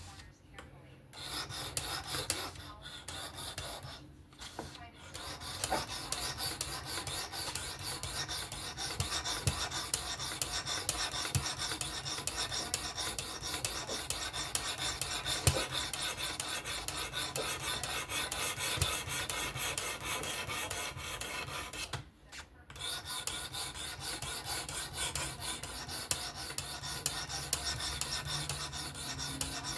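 Knife blade being sharpened on a fixed-angle sharpener: an abrasive stone scraping rapidly back and forth along the steel edge. The strokes stop briefly near the start and again about three quarters of the way through.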